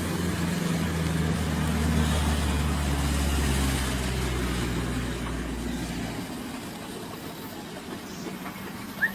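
Heavy truck engine running with road noise, its low drone shifting in pitch; the deepest rumble drops away about two-thirds of the way through, and a brief high squeak sounds at the very end.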